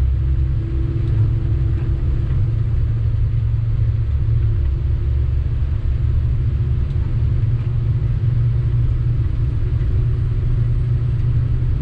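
Sany 6x4 dump truck driving at a steady pace, its engine and road noise making a continuous low rumble.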